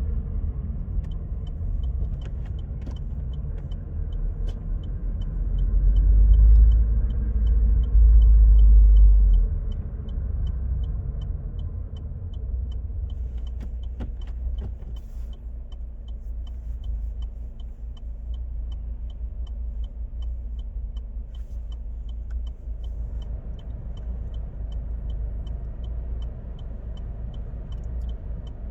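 Car driving, heard from inside: a steady low drivetrain and road rumble that swells loudest for a few seconds about six seconds in, with a light, even ticking about twice a second. The car has the M32 six-speed manual gearbox, and the noise is the sound problem the owner links to it at 50–140 km/h.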